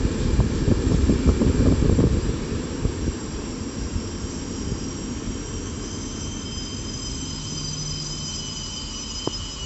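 Train running past: a loud rumble of wheels on rails with repeated knocks in the first couple of seconds, easing to a steadier, quieter rumble with thin high wheel squeals in the second half.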